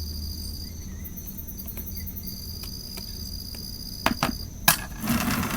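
Crickets trilling in a steady, high-pitched chorus. Near the end come a few sharp clicks and a short rustling scrape as the plastic container and soil are handled.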